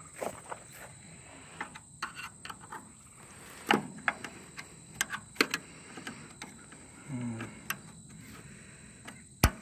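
Scattered metallic clicks and knocks from an International 37 baler's knotter as it ties and cuts the twine, with the sharpest knock near the end.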